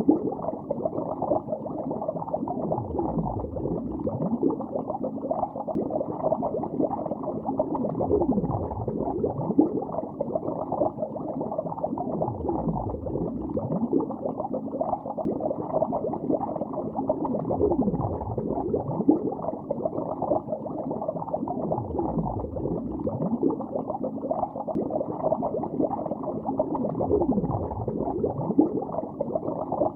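Steady underwater bubbling: a dense, continuous stream of gurgles with many short swoops in pitch, muffled, with nothing high-pitched in it.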